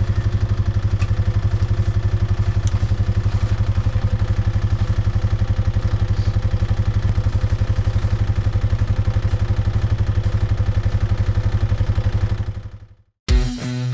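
ATV engine running steadily, an even train of firing pulses, after a jump-start from a booster pack. The sound fades out near the end.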